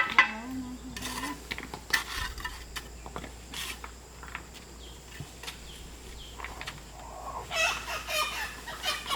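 Chickens clucking, with scattered short calls and a busier run of calls near the end.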